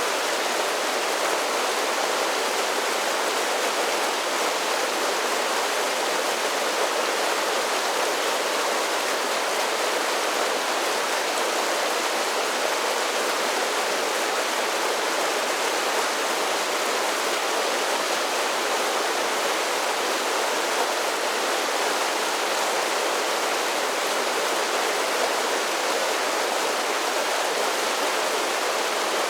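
Mountain creek tumbling over a series of small falls: a steady, even rush of water, with little deep rumble, that never lets up or changes.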